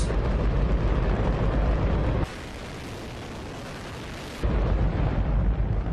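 Hydrogen–oxygen rocket engine firing on a test stand: a loud, continuous, deep rushing noise. About two seconds in it drops to a quieter, thinner version for roughly two seconds, then returns at full strength.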